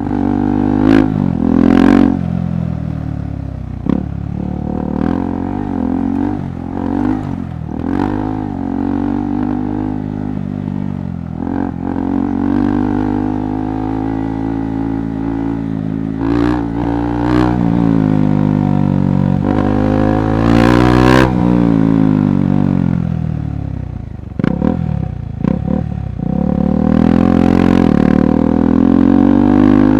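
KTM 390 Adventure Rally's single-cylinder engine revving up and down over and over as the throttle is worked, its pitch rising and falling, with sharp knocks and clatter from the bike riding over rough off-road ground.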